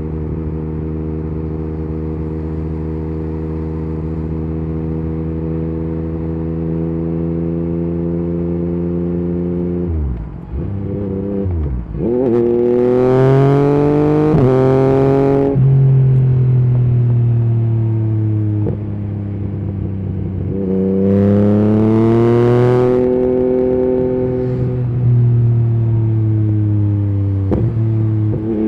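Yamaha MT-09's inline three-cylinder engine through an Akrapovic carbon exhaust with the dB killer removed, ridden under way. It holds a steady note for about ten seconds and dips briefly. It then accelerates hard with the pitch climbing in steps at each gear change, and falls as the throttle is closed. A second strong pull comes about twenty seconds in, and the pitch falls away again near the end.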